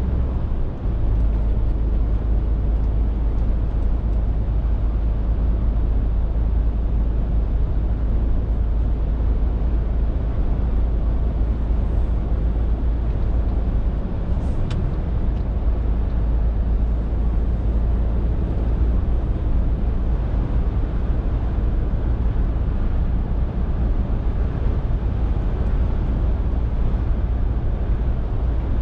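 Scania R450 lorry's 13-litre straight-six diesel running steadily on the move, a deep continuous drone mixed with road noise. A single short click about halfway through.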